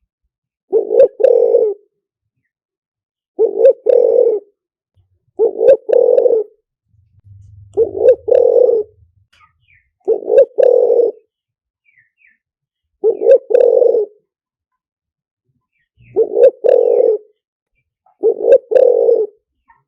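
Spotted dove cooing over and over, eight phrases of about a second each with a short break inside, every two to three seconds. It is a lure call used to draw spotted doves in.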